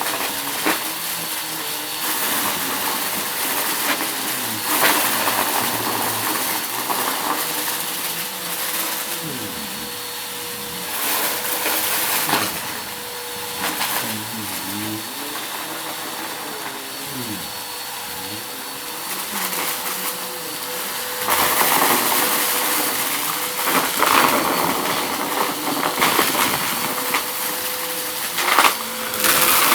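Vacuum cleaner running on a rug with a steady motor whine, and bursts of crackling and rattling as crunchy debris is sucked up. The pitch of the airflow wavers as the head is pushed back and forth.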